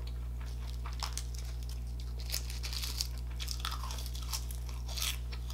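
Close-miked chewing with crisp crunching and crackling in the mouth, a quick run of small cracks through the middle of the stretch, over a steady low electrical hum.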